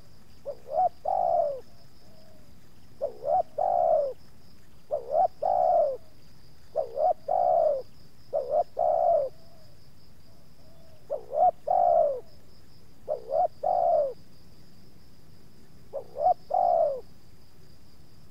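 Spotted dove (tekukur) cooing, eight phrases about two seconds apart, each a couple of short notes and a longer falling coo. A steady high insect trill runs underneath.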